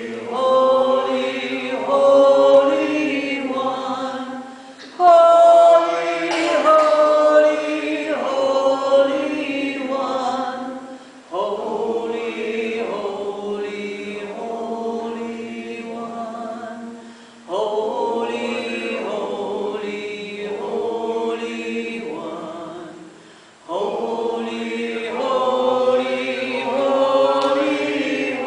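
A group of voices chanting together, a short sung phrase repeated about every six seconds, each phrase starting at once and fading toward its end.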